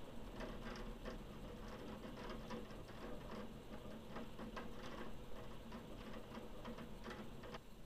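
Scattered raindrops from a thunderstorm ticking irregularly on a hard surface close to the microphone, a few ticks a second over a faint steady hiss, stopping near the end.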